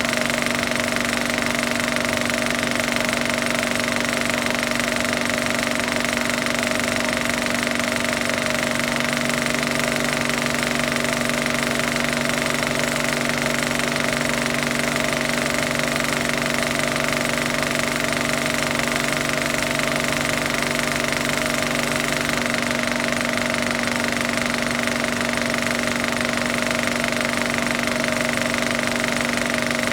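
A machine running steadily: a fast, even mechanical rattle with a constant hum that never changes in pitch or loudness.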